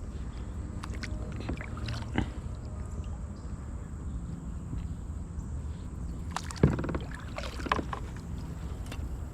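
Kayak being handled on the water: a steady low rumble with scattered knocks and clatters of paddle and gear against the hull, the loudest a sharp clunk with a short ring about two-thirds of the way through.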